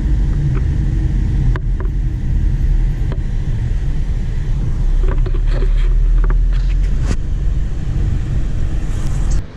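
Car driving, with a steady low road and engine rumble heard from inside the cabin and a few light clicks and knocks scattered through it. The rumble cuts off suddenly near the end.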